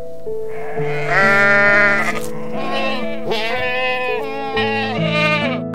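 Goats bleating several times, the longest and loudest bleat about a second in, over piano background music.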